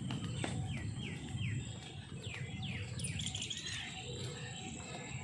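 A bird calling: a run of short downward-sweeping chirps, about two or three a second, then a brief jumbled warble about three seconds in, over a steady low background rumble.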